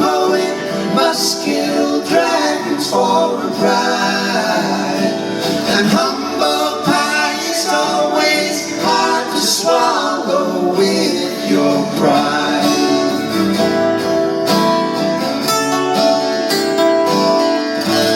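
Live acoustic guitar music with singing, the closing bars of a folk song.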